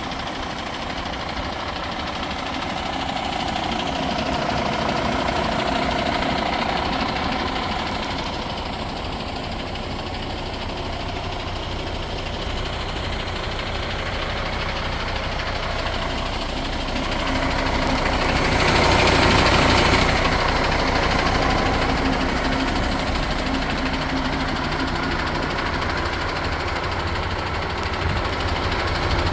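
MAN TGS 18.470 truck's 12.4-litre straight-six diesel running at idle, with a louder, noisier swell for a couple of seconds about two-thirds of the way in.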